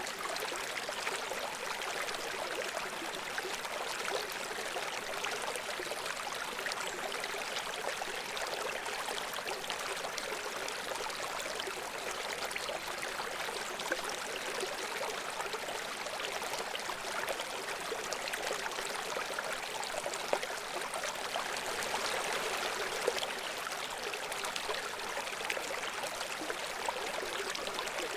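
Shallow brook babbling and trickling over stones, a steady, even water sound with many fine splashes and little low rumble.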